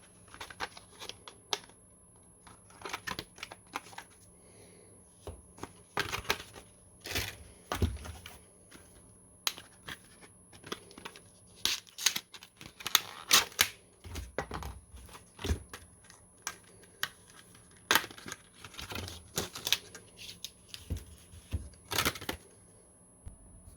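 Hands unpacking and handling computer parts and their packaging: irregular sharp clicks and short bursts of rustling and tearing of plastic and cardboard.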